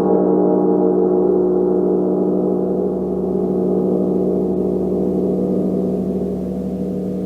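Gong ringing on in a sustained wash of many overlapping tones with a gentle pulsing shimmer, with no fresh strike. It slowly fades a little.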